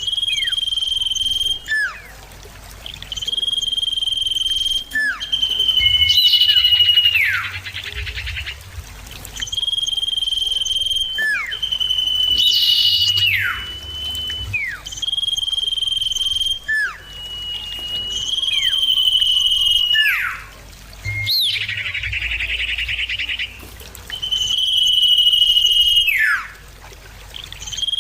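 Common iora (cipoh) singing: long level whistles, each ending in a sharp downward slur, repeated every few seconds. Twice the whistles are joined by a burst of harsh, buzzy chatter.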